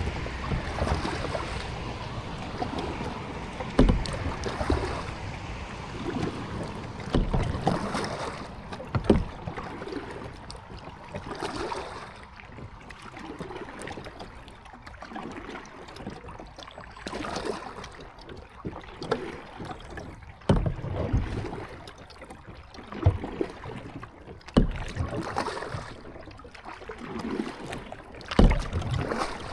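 Kayak being paddled: the paddle blades dip and splash in the water at an uneven pace, with a few sharp low thumps among the strokes.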